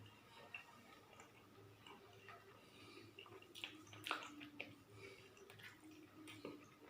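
Faint eating sounds: soft chewing and small wet clicks, with a few sharper clicks about halfway through, over a low steady hum.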